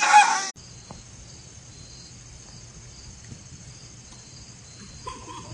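Steady high-pitched insect trill, like crickets chirping, pulsing faintly about twice a second over a low rumble. A loud, brief burst of sound cuts off about half a second in.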